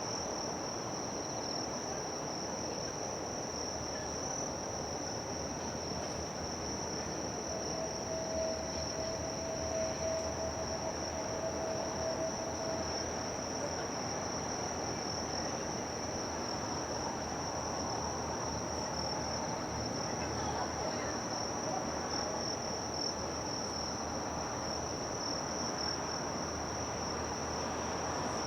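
Insects chirring steadily at one high, even pitch over a broad, steady background hum. A faint steady tone sounds for about five seconds, starting about a quarter of the way in.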